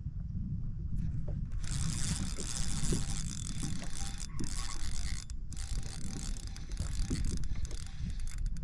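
Fishing reel being cranked: a fast whirring with fine clicks that stops briefly twice, over a low rumble of wind and water.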